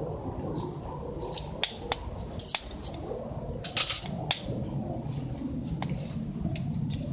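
Wood fire burning in a camp stove, crackling with a handful of sharp pops, most of them bunched in the middle, over a steady low background rumble.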